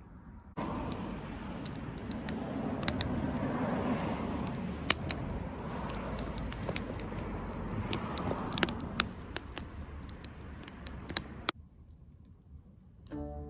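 Wood fire burning in a homemade pail-can secondary-combustion fire pit: a steady hiss of flame with scattered sharp pops and crackles. It starts and cuts off abruptly, about half a second in and again about eleven and a half seconds in.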